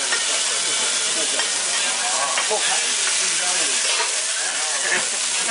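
Food frying on a hot pan or griddle: a steady sizzle. Faint, indistinct voices sit underneath.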